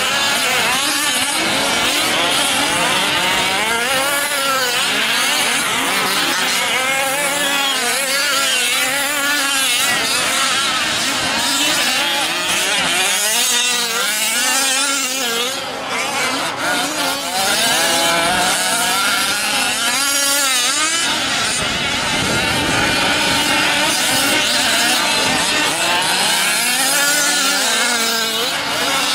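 Several 5th-scale RC trucks' small two-stroke gas engines racing together, revving up and dropping back as they accelerate and slow around the track, with a brief lull about halfway through.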